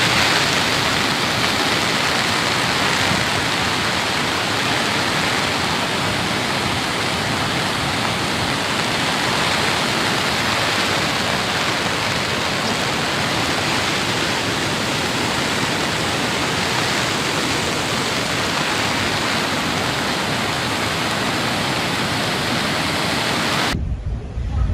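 Steady rushing noise of a storm, heavy rain and wind-driven water, at an even level, cutting off abruptly near the end.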